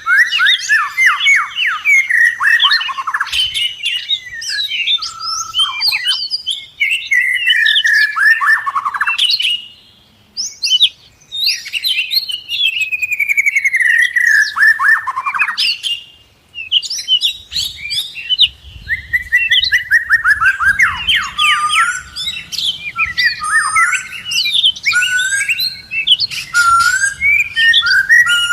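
Small birds chirping loudly and busily: fast runs of high chirps and falling trills, broken by two short lulls.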